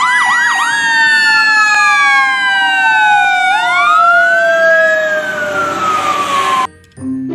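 Emergency vehicle siren: a fast yelp for the first half-second, then long slow wails that mostly fall in pitch, with one rise and fall in the middle. It cuts off suddenly near the end, and music with mallet-like notes begins.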